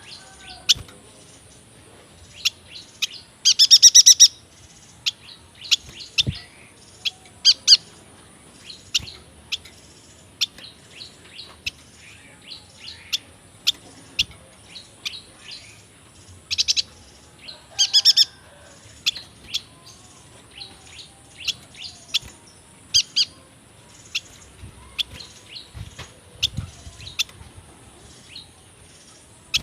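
Yuhina singing: a long series of short, high chirps and twittering notes, broken by a rapid trill about four seconds in and two more trills a little past halfway.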